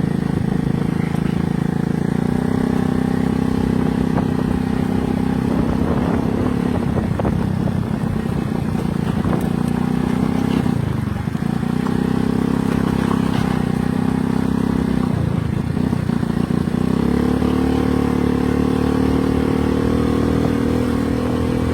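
Motorcycle engine running steadily under way. Its pitch dips briefly twice, about eleven and fifteen seconds in, then steps up slightly about seventeen seconds in.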